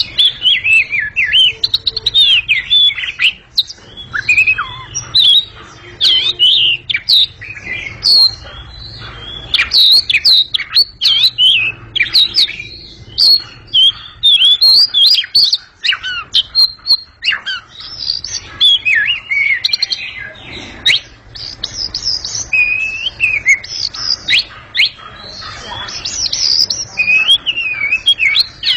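Oriental magpie-robin (kacer) singing loudly: a continuous, varied run of clear whistles and sharp chirps, phrase after phrase with only brief pauses.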